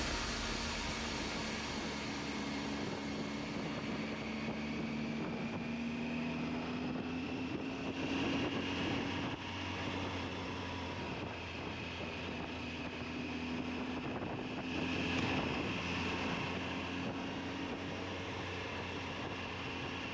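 Triumph Tiger 800's three-cylinder engine running under way, a steady drone whose pitch rises slowly as the bike speeds up, eases off and rises again.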